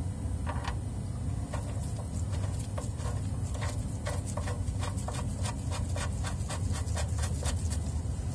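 Ratchet wrench clicking in a run of quick strokes, speeding up later, as the oil drain plug bolt is threaded back in, over a steady low rumble.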